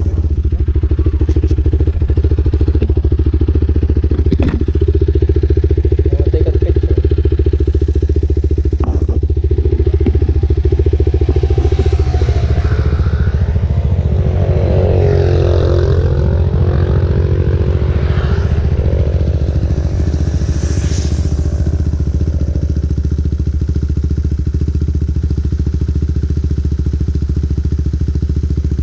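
KTM RC 390's single-cylinder engine through an Akrapovic exhaust, running steadily at an even engine speed. Midway, another engine's pitch slides down and back up as it passes.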